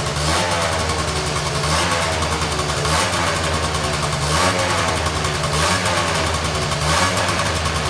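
Honda Dio SR scooter's small two-stroke engine idling steadily, its note swelling slightly at regular intervals about every second and a half.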